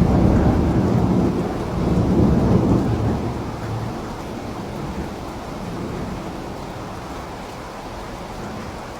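A thunderclap breaks in suddenly over steady rain and rolls on as a deep rumble for about four seconds, swelling a second time, then dies away into the rain.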